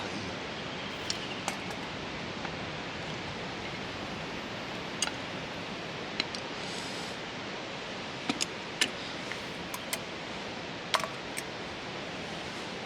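Steady rushing hiss with light clicks and taps scattered through it.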